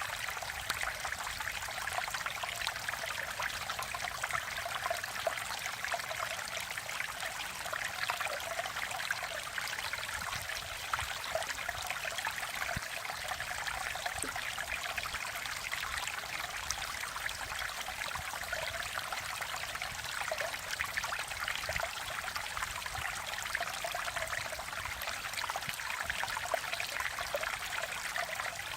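Mountain valley stream flowing and splashing steadily, a continuous rush of water with fine bubbling detail.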